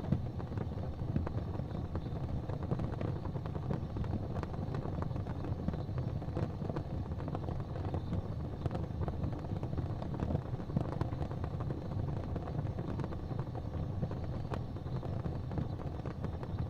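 Wood fire crackling in a fireplace: many small pops and snaps over a steady low rumble.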